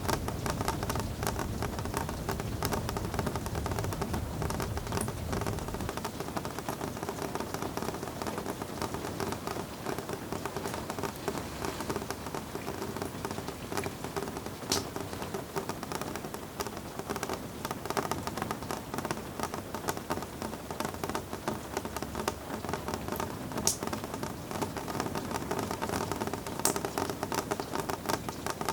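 Steady rain falling, a dense patter with scattered louder drops ticking. A low rumble underneath stops about six seconds in.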